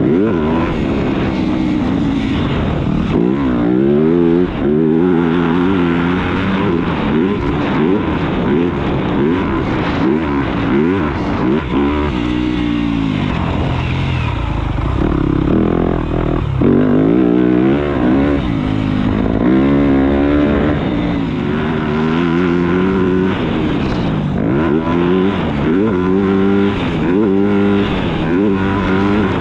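Motocross dirt bike engine revving hard and falling back again and again, its pitch climbing and dropping every few seconds.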